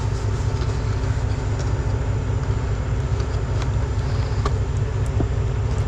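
Heavy diesel truck engine idling steadily with an even low throb. A few faint light clicks sound over it.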